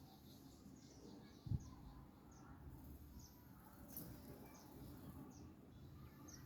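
A small bird chirping faintly: short, high chirps repeated every half second or so, with a brief low thump about one and a half seconds in.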